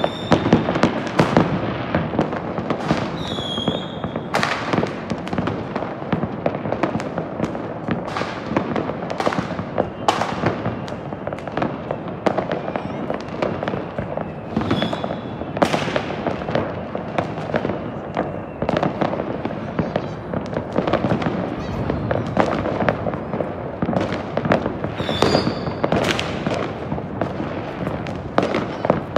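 Fireworks and firecrackers going off all over a city, a continuous irregular crackle of distant bangs with sharper louder pops mixed in. A few short high whistles sound about three seconds in, near the middle and near the end.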